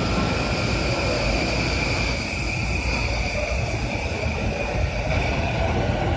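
JR East E235 series commuter train running: a steady rumble of wheels on rail with a constant high whine over it, which fades away about five seconds in.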